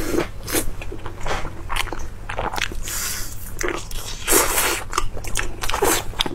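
Close-miked eating: meat is bitten off a bamboo skewer and chewed, making many quick, wet mouth clicks.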